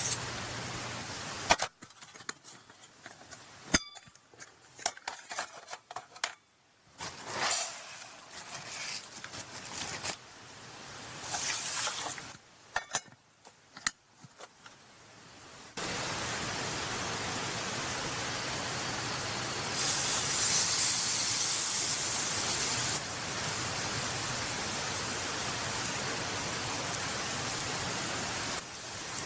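Small clinks and scattered clicks of rice being readied in a cooking pot, then from about halfway a steady sizzle of thick-cut beef tongue grilling over charcoal, louder for a few seconds in the middle of it.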